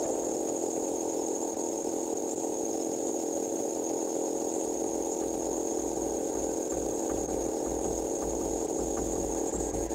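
A motor running steadily: an even mechanical hum with a high whine on top, and a low pulsing that comes in about halfway through.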